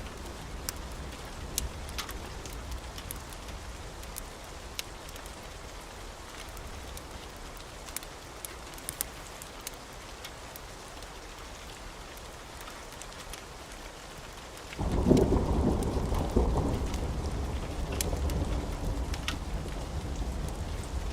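Steady rain with scattered sharp crackles of a log fire. About 15 seconds in, a thunderclap breaks in suddenly and rolls on as a low rumble that slowly fades.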